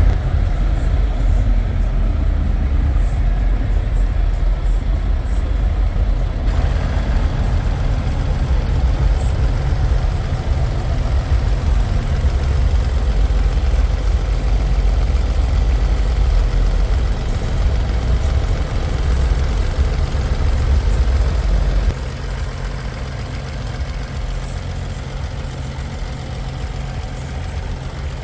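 Semi-truck diesel engine idling steadily, the sound sitting mostly low in pitch. About three-quarters of the way through it drops abruptly to a quieter level.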